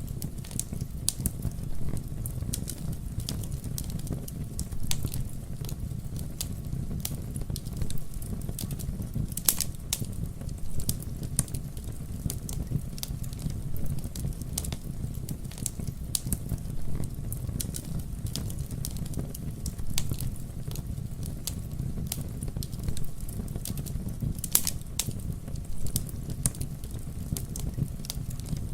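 Wood fire crackling: irregular sharp pops and snaps over a steady low rumble of burning, with denser clusters of pops about ten seconds in and again near the end.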